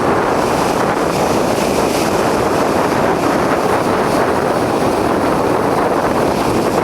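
Strong bora wind blowing against the microphone as a loud, steady rush of noise.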